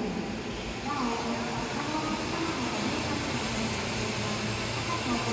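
A faint voice from a projected story film's soundtrack, over a steady room hum.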